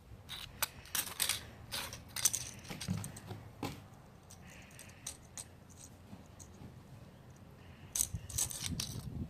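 Light clinks and rattles of small hard objects being handled, in two bursts: a string of sharp clicks over the first few seconds, then quieter, then more clinking near the end.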